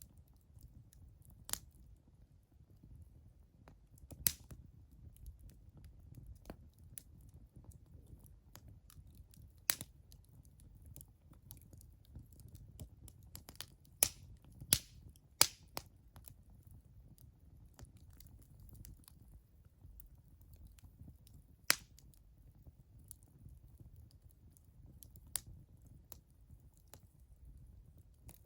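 Wood campfire crackling: sharp, irregular pops, a few louder ones near the middle and one shortly after, over a low steady rumble.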